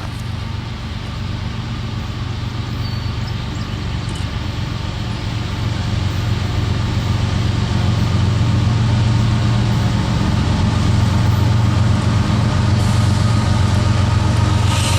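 Freight train's diesel locomotive engines running with a steady low drone, growing gradually louder as the train approaches.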